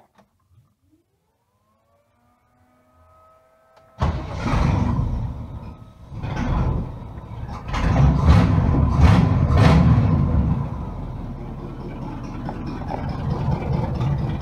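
A faint rising whine, then the truck's engine fires about four seconds in and is revved several times through its newly extended exhaust before settling to a steady idle.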